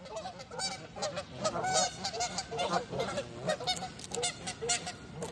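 A flock of geese honking: many short, overlapping honks and calls in quick succession, while the birds crowd in to be hand-fed.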